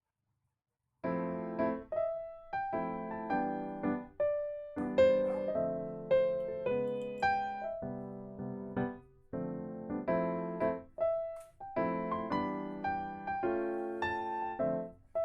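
Background piano music: after about a second of silence, a piano begins playing a gentle melody over chords, each note struck and fading away.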